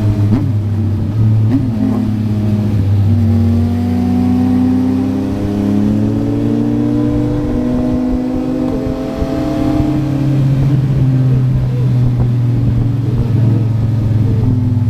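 Yamaha MT-09's three-cylinder engine through a Yoshimura R11 exhaust, running steadily on the move; its note rises a little a few seconds in, then eases back down.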